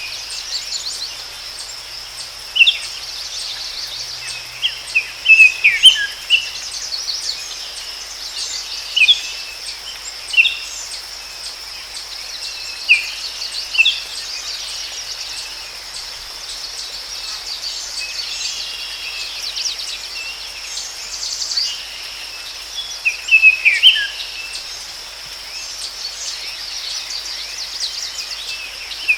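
Forest ambience: a steady high-pitched insect drone, with songbirds chirping in short bursts every few seconds.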